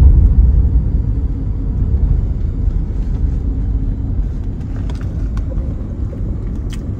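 A car driving: a steady low rumble of road and engine noise, a little louder at the start, with a few faint ticks later on.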